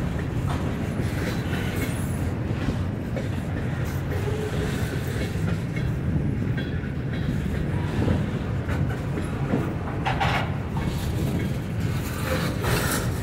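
Mixed freight cars (covered hoppers, a gondola, coil cars) rolling past: a steady rumble of steel wheels on rail with clickety-clack over the rail joints. Louder clatters come about ten seconds in and again near the end.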